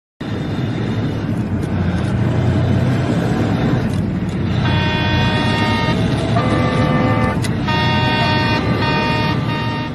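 Loud road and engine noise of traffic, joined about halfway through by vehicle horns sounding several held notes at once, the notes changing every half second or so.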